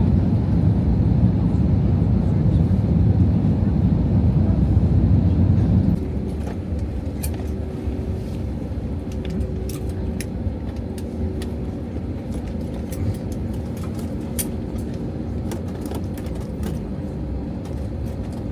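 A vehicle's steady low rumble that drops suddenly to a quieter hum about six seconds in, with scattered light clicks after the drop.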